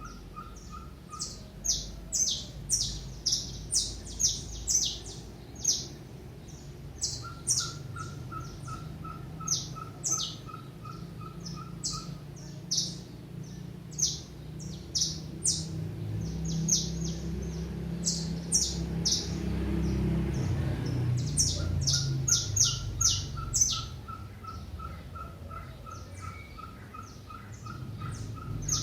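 Small wild birds chirping at a feeder: many short, sharp chirps come in quick clusters. Under them a lower note repeats evenly, about three times a second, in runs of several seconds. A low rumble swells in the middle and fades again.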